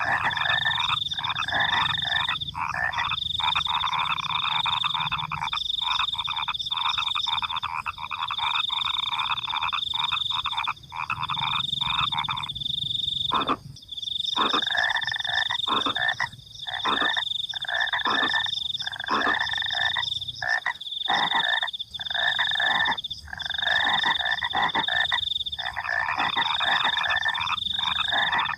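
A night chorus of frogs croaking in rapid, dense pulsed calls with short breaks, over a steady high-pitched cricket trill that cuts out briefly every second or so.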